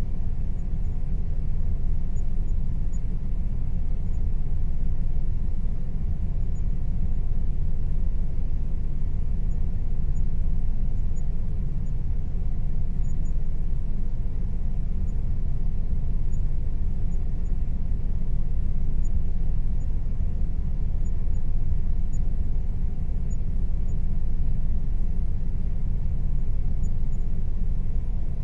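Air conditioner running steadily: a constant low rumble with a faint, even hum above it.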